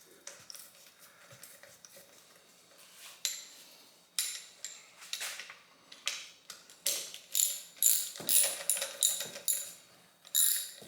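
Small cordless drill running bolts into a TH400 transmission's aluminium tail housing in short repeated bursts, faint at first and then louder and more frequent from about four seconds in.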